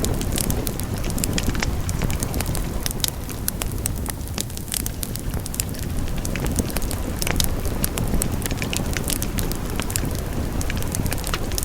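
Wood fire burning with a steady low rumble and frequent sharp crackles and pops, which thin out briefly a little before the middle.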